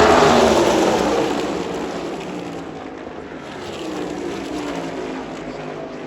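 NASCAR Cup Series V8 stock cars passing at speed, the engine note dropping in pitch and fading as the pack moves away. A second, quieter swell of engines comes past about four seconds in and fades again.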